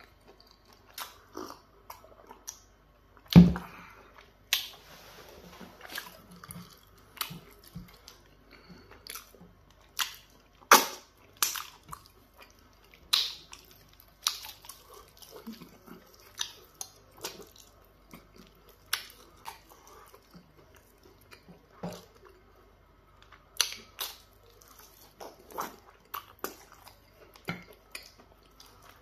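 Close-miked wet chewing and lip smacking of a person eating pounded yam fufu with peanut butter soup, with many short sharp smacks scattered throughout. A single loud thump about three and a half seconds in is the loudest sound.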